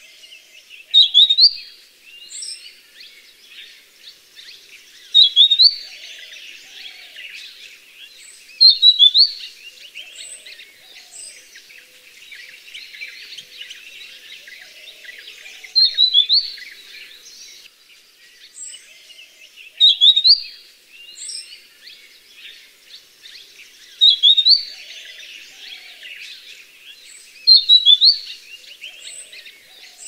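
Grey-headed canary-flycatcher singing: a short, high, sweet whistled phrase of two or three quick rising notes, repeated seven times about four seconds apart. Underneath is a faint steady background of forest sound.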